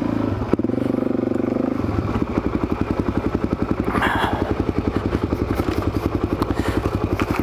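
Suzuki DR-Z400SM's single-cylinder four-stroke engine running, with a sharp knock about half a second in; from about two seconds in it settles to a slow, even chugging of separate firing pulses.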